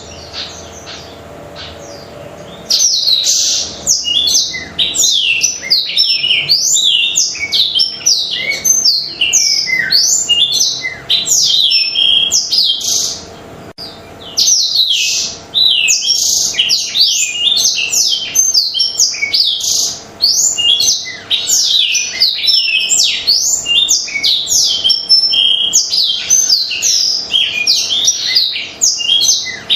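Blackthroat (black-throated canary) in full, continuous song: a long, fast warbling run of quick high notes sliding up and down. It starts about three seconds in and breaks off once, briefly, about halfway through.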